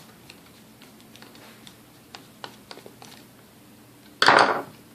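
Small light clicks of mixer parts being handled on the bench, then a brief loud rattle about four seconds in.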